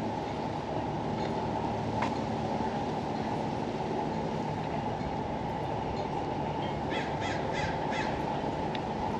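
Steady low outdoor background rumble, with a bird calling four times in quick succession about seven seconds in.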